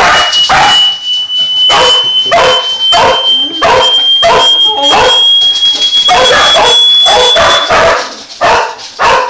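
Dogs barking and yelping over and over, about two barks a second, over a steady high-pitched hearing-test tone that slowly rises in pitch and cuts off near the end. The barking is the dogs reacting to the ear-splitting tone.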